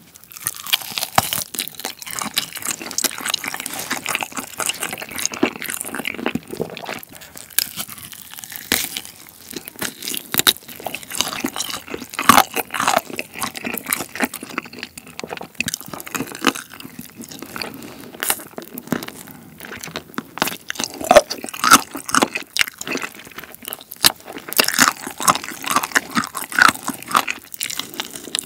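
Close-miked eating of sauce-coated chicken: crunching bites and chewing, a dense run of irregular crackles and clicks.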